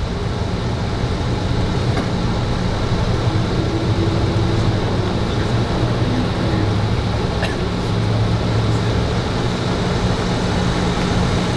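A vehicle engine idling steadily nearby, a low even hum that does not change.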